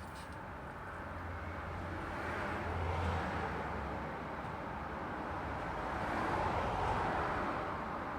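Road traffic: two vehicles pass in turn, the tyre and engine noise swelling to a peak about three seconds in and again about six and a half seconds in, with a low engine hum under the first pass.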